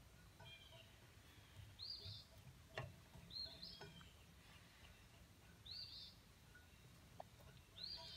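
Near silence with a bird repeating a short rising-and-falling chirp, four times about two seconds apart, and a single light click about three seconds in.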